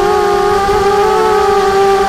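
Quadcopter propellers humming steadily in flight, several rotors whining at slightly different, gently wavering pitches.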